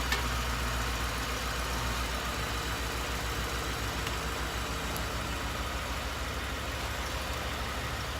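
The 2012 Ford F-150's 5.0 V8 idling steadily with a low, even throb.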